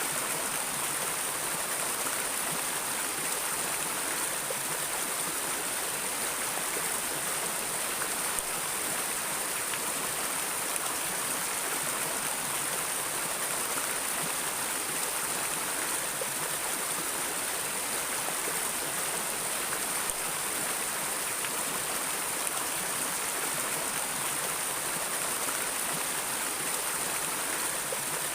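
Water of a stream or river flowing steadily, an even rushing hiss with no breaks or changes.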